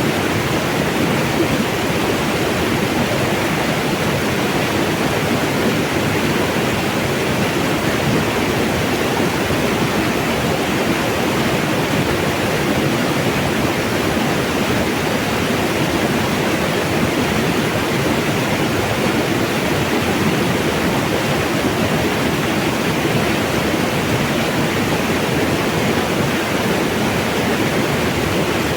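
Flowing mountain water, a steady, even rushing that does not let up.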